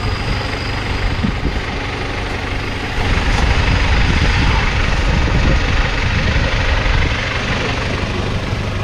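Off-road 4x4 engine running steadily, getting louder about three seconds in.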